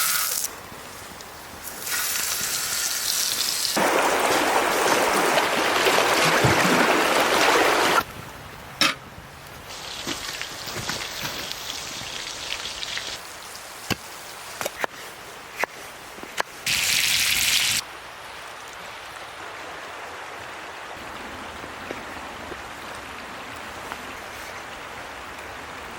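Steak sizzling and spitting as it cooks over an outdoor fire, heard in several abruptly cut stretches. A few sharp pops or crackles come between the louder sizzles, and a quieter steady hiss follows.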